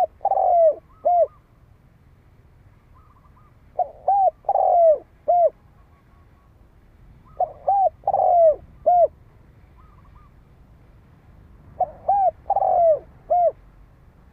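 Spotted dove cooing: a repeated phrase of two short coos, a longer falling coo, then one short coo, coming about every four seconds.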